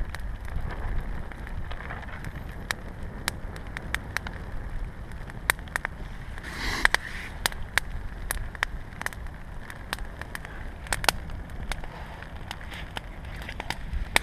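Small campfire of thin wood sticks and twigs crackling, with irregular sharp pops and snaps over a steady low rumble. There is a brief hiss about halfway through.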